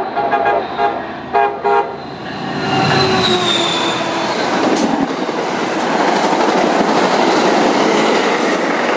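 MBTA commuter rail train sounding its horn in several short blasts during the first two seconds, then passing close at speed: the locomotive and bi-level coaches rolling over the rails in a loud, steady rush that builds from about two and a half seconds in.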